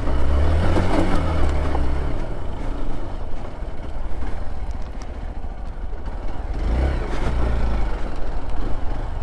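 Off-road vehicle engine running and revving on a rough trail, with clattering and scraping. The engine rumble is loudest in the first two seconds and again near the end.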